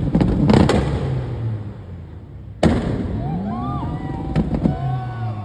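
Modified car exhaust revving, with sharp pops and bangs from the exhaust near the start. The sound drops away and then starts again abruptly about halfway through with another rising rev.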